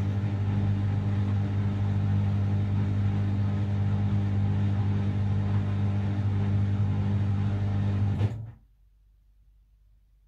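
Washing machine running with a steady, even hum that cuts off abruptly about eight seconds in, leaving near silence.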